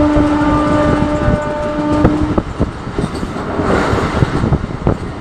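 Train horn holding one steady note, which stops about two seconds in, over the rumble and irregular clatter of a moving train.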